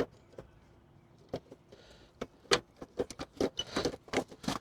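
Irregular clicks and knocks from a stuck headlight bulb and its wire connector being wiggled and pried by hand in the headlight housing, sparse at first and coming faster after about two and a half seconds.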